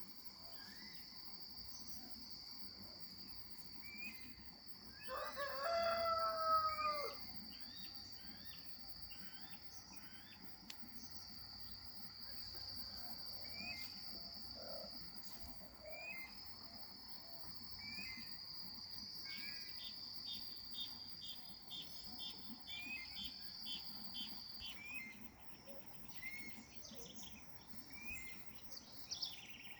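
A rooster crows once about five seconds in, the loudest sound. Around it a steady high insect buzz runs and stops about 25 seconds in, with scattered short bird chirps throughout.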